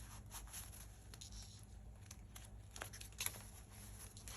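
Faint rustling and soft taps of paper and card being handled as the pages of a handmade junk journal are turned, with one sharper tap a little after three seconds in.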